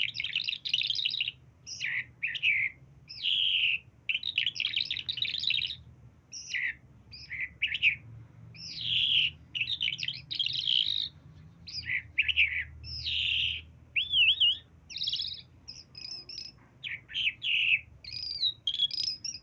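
A talking pet bird calling without pause in quick, varied phrases: short chirps, whistles and harsh notes, with a wavering warble about two-thirds of the way through. No words can be made out.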